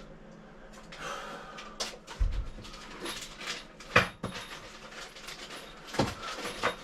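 Clicks, knocks and rustling of bidet parts and mounting hardware being handled and fitted onto an RV toilet, with a low thump about two seconds in and sharp clicks about four and six seconds in.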